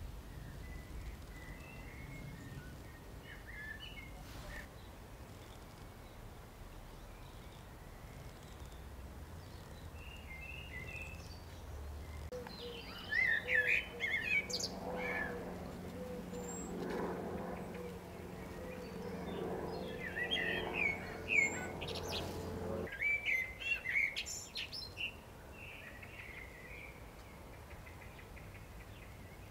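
Small songbirds chirping and singing in short, scattered phrases. A steady low hum joins about twelve seconds in and cuts off suddenly about ten seconds later.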